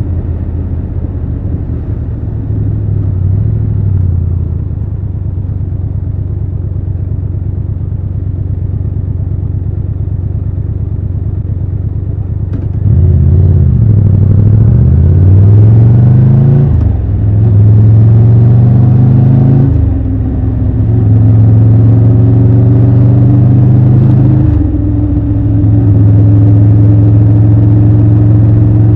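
Triumph Tiger 1200 Rally Pro's three-cylinder engine running low and steady for about twelve seconds. It then opens up and pulls hard, the revs climbing and dropping back at three upshifts before it settles into a steady cruise.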